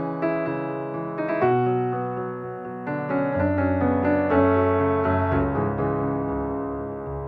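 Background piano music: slow chords and single notes, sustained and gently ringing.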